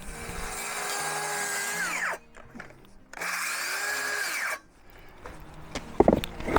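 Cordless drill driving screws into landscape timbers in two runs, the first about two seconds and the second about a second and a half, its motor whine falling in pitch as each run ends. A few loud knocks near the end.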